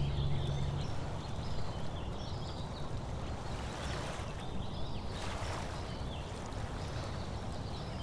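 Small birds chirping repeatedly over a steady low outdoor background noise.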